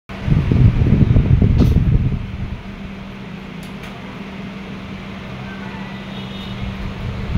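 A loud, rough low rumble for about two seconds, then a steady low hum like a running fan, with a few faint short high chirps near the end.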